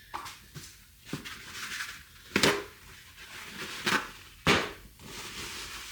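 Several separate sharp knocks and clunks of hub parts and tools being handled and set down on a workbench, with a few seconds between the loudest ones.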